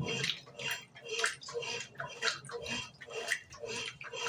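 Brastemp BWG11 11 kg washing machine agitating a load of bedding and towels, water sloshing in the drum in an even rhythm of about two swishes a second.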